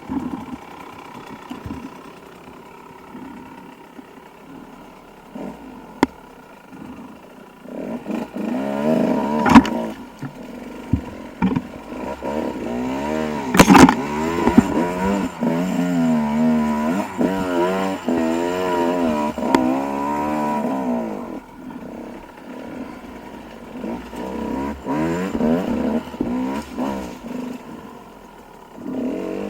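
Dirt bike engine running low and quiet, then from about eight seconds revving up and down in quick throttle bursts for some twelve seconds, with a few sharp knocks. It drops back, then revs again in shorter bursts near the end.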